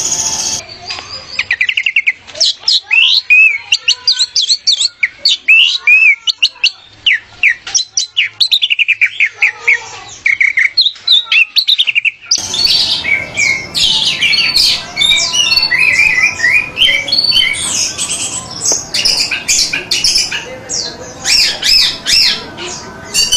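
Orange-headed thrush (anis merah) singing a fast run of varied, high whistled notes and sweeps. About halfway through, the song becomes denser and busier over a noisier background, as a different recording is spliced in.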